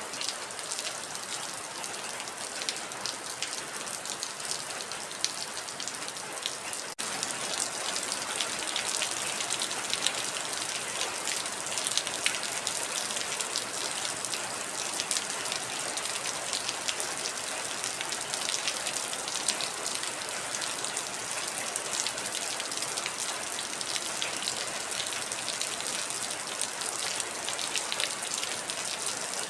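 Heavy rain falling steadily, with a dense patter of individual drop hits over the hiss. The level steps up slightly and suddenly about seven seconds in.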